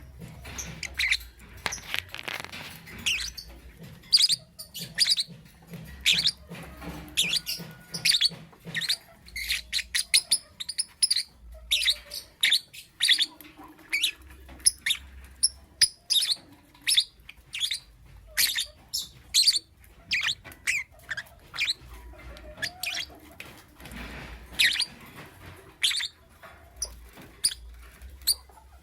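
Lovebird chirping: a long string of short, sharp, high chirps, often two or three a second, with brief pauses between runs.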